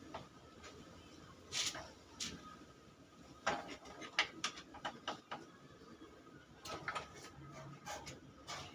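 Scattered clicks and light metallic knocks of hand tools and engine parts being handled, with irregular clusters a few times and no engine running.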